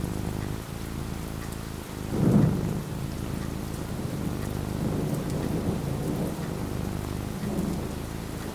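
Thunderstorm: a loud thunderclap about two seconds in, then a long rolling rumble of thunder, over steady falling rain.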